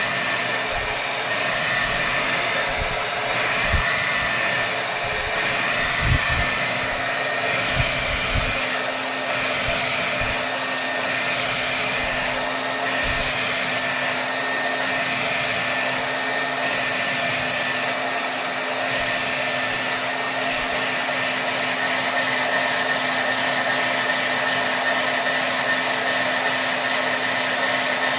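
Hair dryer running on its maximum setting: a steady rush of air with a constant motor hum and a high whine. A few soft low thumps come between about four and nine seconds in.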